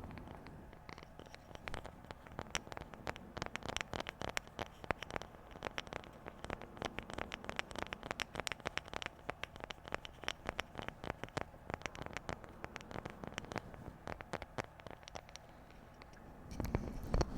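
Rapid, irregular light tapping on objects, several taps a second, for ASMR. Near the end a louder scratchy rustling sound starts.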